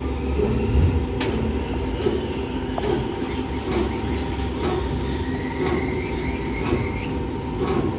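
A steady low machine drone with sharp knocks every second or two, and a faint high whine from about halfway through.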